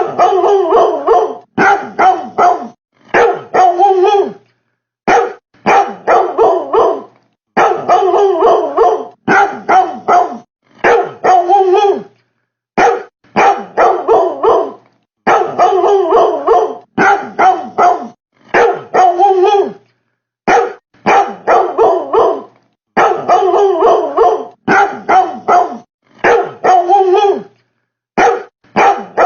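Dog-like barking, repeated in quick runs of two to four barks broken by short gaps of dead silence, as if looped. The title jokingly credits the barking to a refrigerator.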